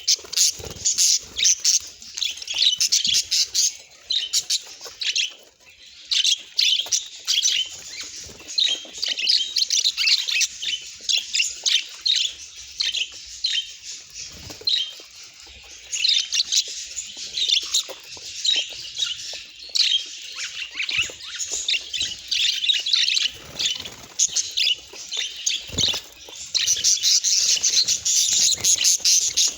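Budgerigar chirping and chattering in fast runs of short, high notes, with a few brief lulls.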